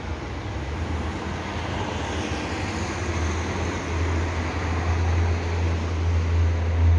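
Passenger train running across the rail yard tracks: a steady rumble of wheels on rail that grows gradually louder.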